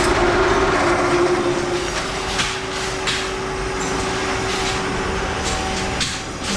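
Workshop machinery running with a steady hum over a noisy rumble, with a few sharp clicks about two and three seconds in.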